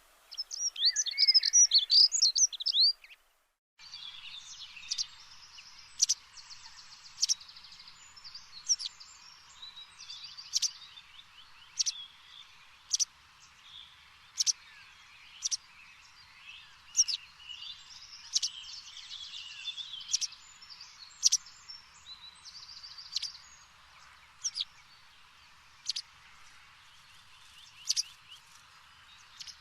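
Birdsong ambience: a loud burst of warbling bird chirps for about three seconds, then after a short break a steady high-pitched backdrop of short, sharp chirps roughly once a second mixed with buzzy trills.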